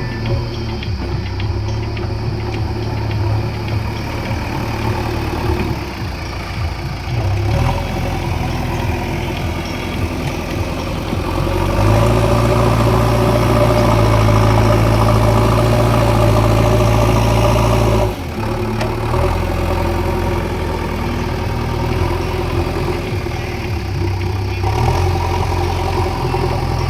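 JCB 3DX backhoe loader's diesel engine running. Its note rises and holds louder and steadier for about six seconds midway, as the revs go up under working load, then drops back suddenly to a lower running speed.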